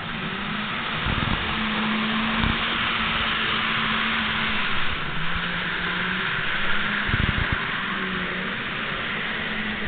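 N-scale model train running on its track: a small electric motor hum that shifts slightly in pitch, over a steady hiss, with a few soft low bumps.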